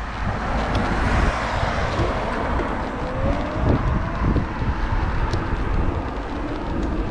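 Wind buffeting an action camera's microphone on a moving bike, with steady road noise. A faint rising whine comes in about halfway through, and a steadier hum starts near the end.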